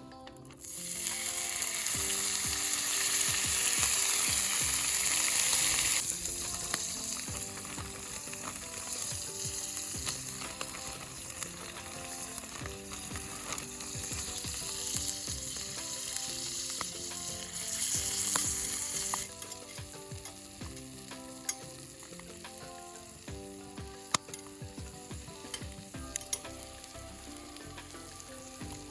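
Food sizzling in a hot pan, loudest in the first few seconds, then quieter, with a brief louder surge about eighteen seconds in. Scattered small clicks of a utensil against the pan.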